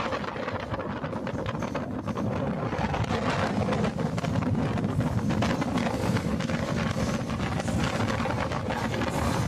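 MEMU electric passenger train running on the track: a steady low rumble with rapid rattling and clicking, and wind buffeting the microphone.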